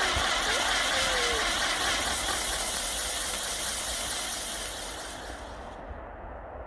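Saturn Wheel spinning firework burning with a loud, steady hiss of sparks, which weakens about four seconds in and dies away near the end as the wheel burns out.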